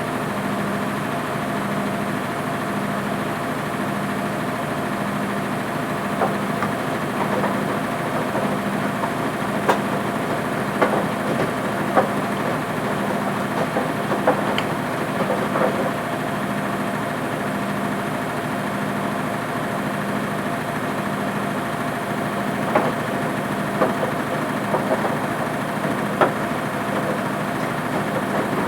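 Front-loading washing machine running mid-programme: a steady motor hum that pulses about once a second, with occasional light clicks and knocks.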